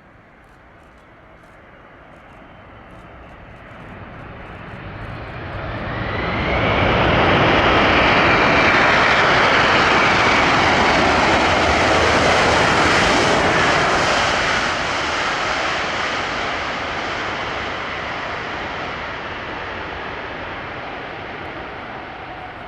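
Jet engines of a four-engine Boeing 747-400 freighter passing close as it comes in to land. The roar and high whine grow loud over several seconds, hold for about seven seconds, then slowly fade away.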